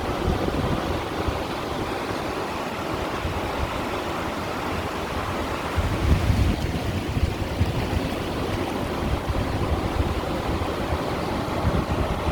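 Small sea waves washing and splashing against shoreline stones in a steady wash, with a low rumble that grows stronger about halfway through.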